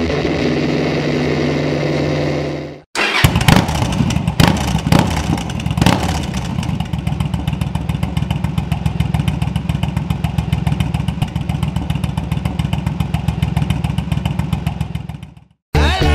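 Motorcycle engine blipped sharply a few times, then idling with an even, rapid beat that stops abruptly near the end.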